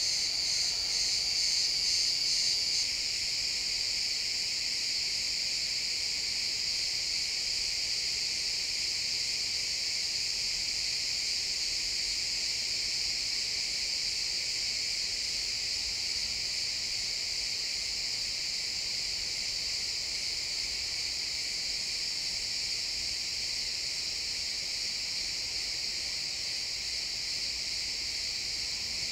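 Chorus of crickets chirping, a dense high-pitched trill. A louder, pulsing chirp stands out for the first few seconds, then the chorus settles into a steadier, even drone.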